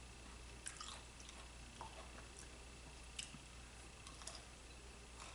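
Faint, wet mouth sounds of a pickled pepperoncini being bitten and chewed, with a handful of soft clicks.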